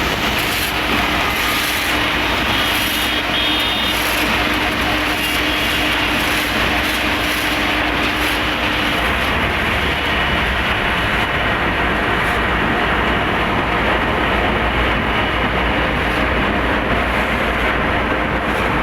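Road milling machine working on asphalt, a loud, steady heavy-machine noise with a deep engine drone underneath.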